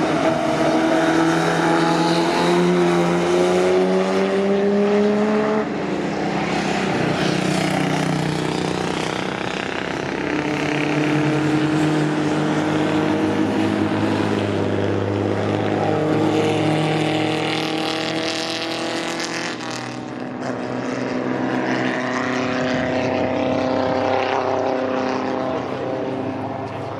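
Vintage racing cars' engines running hard as they pass, pitch climbing under acceleration and breaking off at gear changes, with several cars going by in turn.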